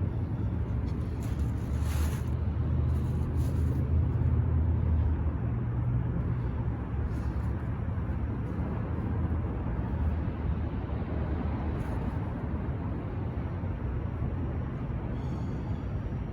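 Steady low rumble with no distinct events, a little louder a few seconds in.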